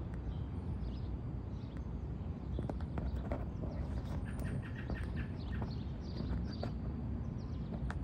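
Small birds chirping over a steady low outdoor rumble, with a quick run of repeated chirps about halfway through and a few scattered sharp clicks.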